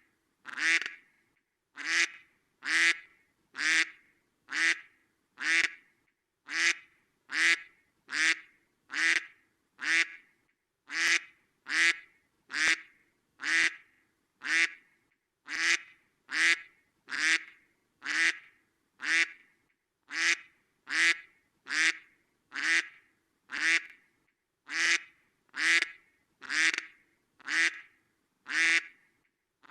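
A duck quacking over and over in a steady, even rhythm, about one and a half quacks a second, each a short nasal "kwek".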